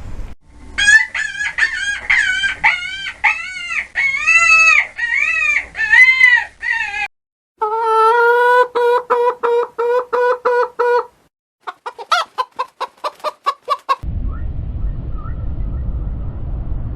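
Chickens calling: a run of repeated rising-and-falling squawks, then steadier pulsed clucking, then a quick run of short calls. About fourteen seconds in the calls stop and a steady low noise takes over.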